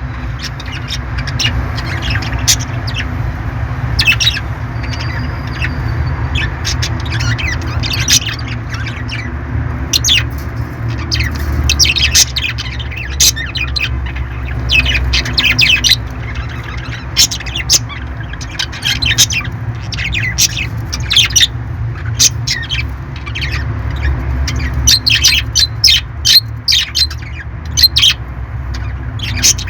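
Parrots squawking and chirping: many short, sharp calls, some in quick clusters, over a steady low background hum.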